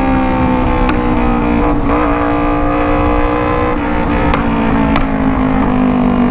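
Kawasaki Ninja 250 parallel-twin engine breathing through an Alpha Racefit full-system exhaust, ridden at a fairly steady throttle; the engine note shifts slightly about two seconds in, with a few short clicks.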